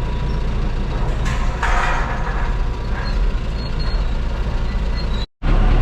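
Excavator engine running with a steady low rumble, with a brief louder rattle about one and a half seconds in as it works at pulling down the shed.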